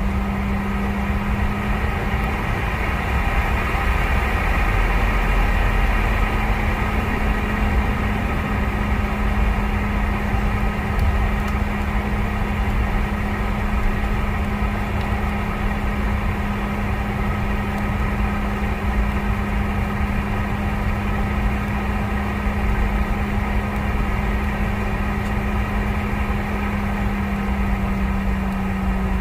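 Steady cabin noise of a Boeing 717-200 on the ground with its rear-mounted Rolls-Royce BR715 turbofans running: a constant low drone and rumble with a steady hum.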